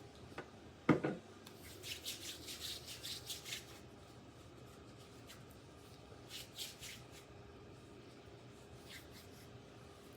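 Hands rubbing together in quick strokes for hand hygiene after a glove is taken off, with a short knock about a second in and a few more rubs later on.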